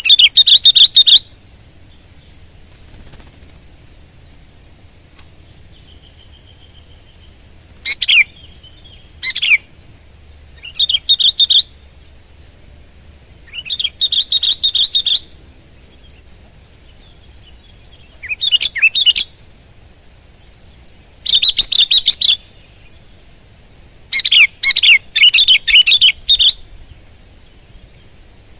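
Sooty-headed bulbul (kutilang) singing: about eight short, loud bursts of quick warbling, chattering notes, separated by pauses of one to a few seconds, over a faint low hum.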